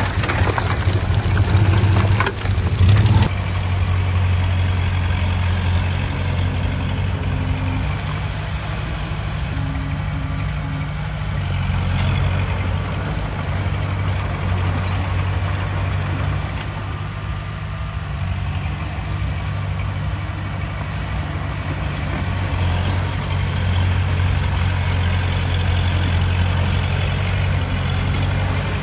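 Heavy diesel engine of earthmoving machinery running steadily under load, louder and rougher for about the first three seconds before settling to an even drone.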